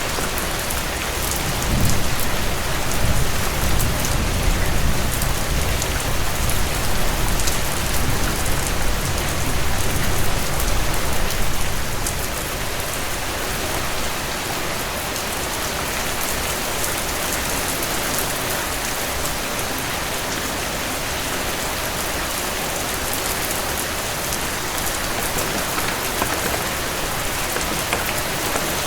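Heavy rain falling steadily on a cabin porch, with a heavier low rumble underneath for the first ten seconds or so.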